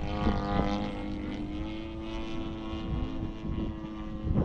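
Electric motor and propeller of a 67-inch Extreme Flight Extra 260 RC aerobatic plane whining steadily in flight, its pitch holding fairly even with small shifts, over a low rumble.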